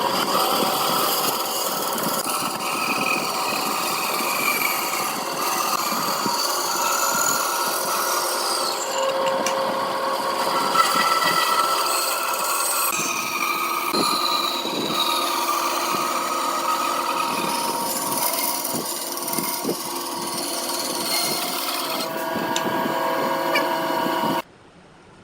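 A power tool working wood, with a steady rasping, rubbing sound and a shifting motor whine, that cuts off suddenly near the end.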